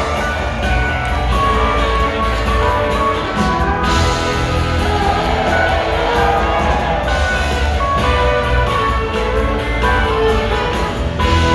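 Live rock band playing a song, with guitar lines over a heavy bass line.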